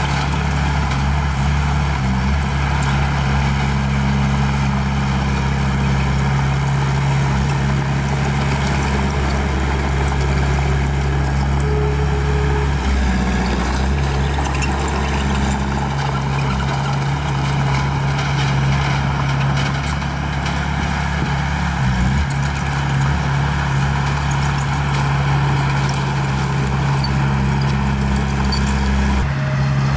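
Small bulldozer's diesel engine running steadily with a deep, even note, wavering briefly about halfway through and again later.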